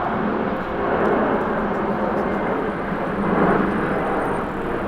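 Jet airliner engines, a steady noise with a faint whine, from an aircraft moving on or near the runway.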